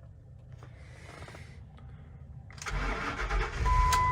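Ford-based truck engine cranking and starting up about two-thirds of the way in, the immobilizer accepting the newly programmed key. A steady electronic warning beep comes on near the end while the engine runs.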